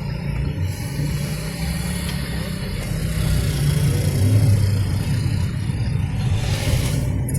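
Steady low rumble of a car driving along a road, engine and road noise together, swelling slightly about four seconds in.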